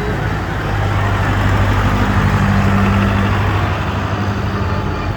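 A tractor engine running as it drives past, a low steady hum that grows louder toward the middle and eases off near the end.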